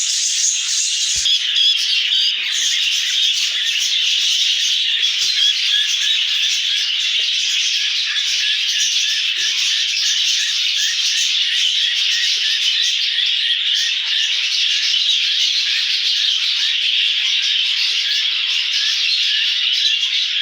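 Many small cage birds chirping and chattering together in a dense, continuous din, with quick repeated calls throughout.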